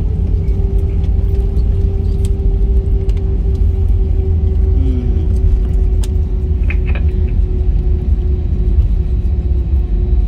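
Jet airliner cabin noise from a passenger seat: a loud, steady low rumble with a steady hum over it. A few light clicks and rattles come about six to seven seconds in.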